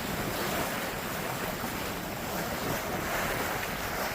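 Steady rush of wind and sea aboard a sailboat under way, with wind buffeting the microphone.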